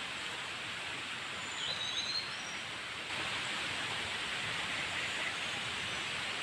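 Forest ambience: a steady rushing hiss, with a few short, high, sliding bird calls about two seconds in.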